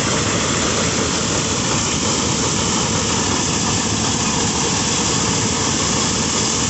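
Engine of a rice threshing machine running steadily at a constant speed, a continuous loud mechanical drone.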